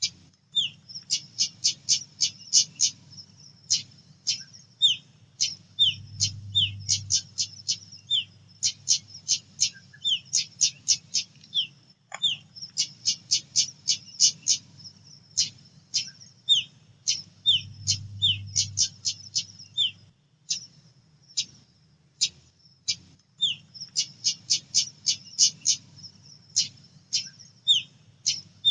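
Female pied bushchat calling: rapid runs of short, sharp high chips, mixed with occasional brief down-slurred notes, coming in bursts. Over a faint low hum.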